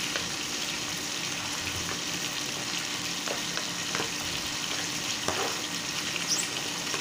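Chicken breast fillet sizzling on the grill pan, a steady frying hiss, with a few light clicks of a spoon scraping diced sausage off a plate.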